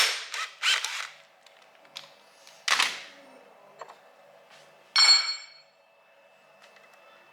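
Hand tools at work on an engine: a few short bursts of tool noise in the first three seconds, then a metal part or tool clinking down with a brief ring about five seconds in.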